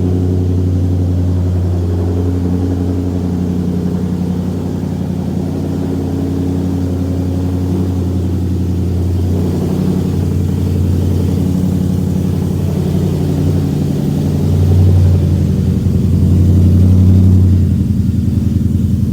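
Supercharged 5.0L V8 of a Ford F-150 (Whipple blower, long-tube headers, MBRP cat-back exhaust) running at a steady, deep cold-start idle through the aftermarket exhaust. The idle swells twice in the last few seconds.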